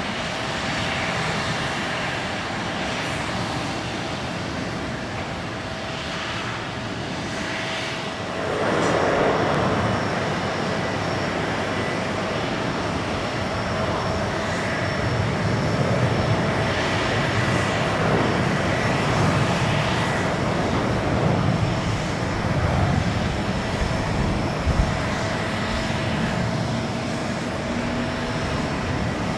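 Jet airliner engines at takeoff power: a steady roar with a faint whine of fan tones, growing louder about eight seconds in.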